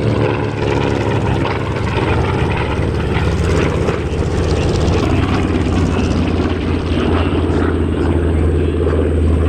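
Grumman TBM Avengers' Wright R-2600 Cyclone radial engines droning steadily as the aircraft pass along the show line, the pitch dropping a little near the start.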